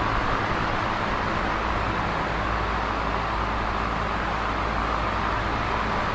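Electric fan running steadily: an even whooshing air noise with a low motor hum underneath.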